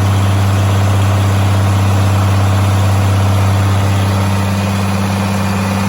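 Farm machinery running steadily: a loud, even, low hum that does not change.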